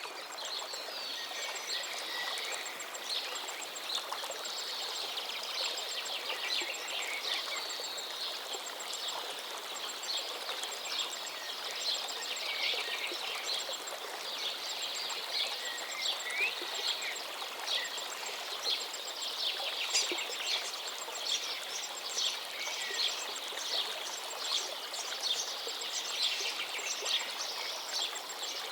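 A river running steadily, with many small birds chirping and calling busily over it.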